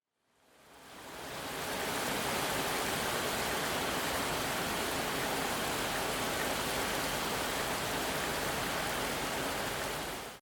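Steady, even rush of heavy falling water, fading in over the first second or two and cutting off abruptly at the end.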